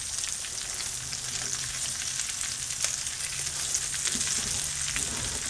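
Sliced turkey sausage frying in bacon drippings in a stainless steel skillet: a steady sizzling hiss with scattered small pops and crackles.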